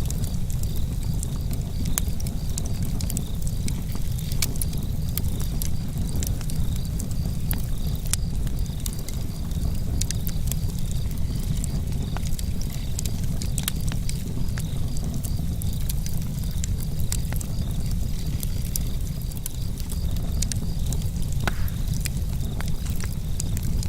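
Campfire burning close up: a steady low rumble of burning wood with irregular sharp crackles and pops. Crickets chirp steadily throughout in a fast, even pulse.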